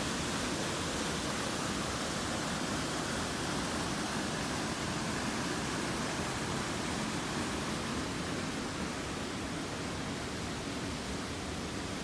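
A waterfall rushing steadily: an even, unbroken hiss of falling water with no other events.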